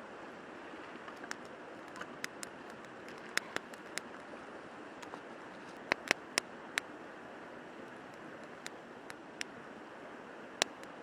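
A river flowing steadily, with scattered sharp clicks and snaps over it, several close together about six seconds in.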